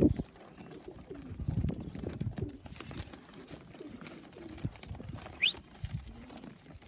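Racing pigeons cooing around the loft, low repeated coos with a few light clicks, and one short rising chirp about five and a half seconds in.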